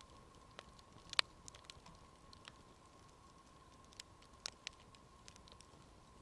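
Wood campfire crackling faintly, with irregular sharp pops; the loudest pop comes about a second in.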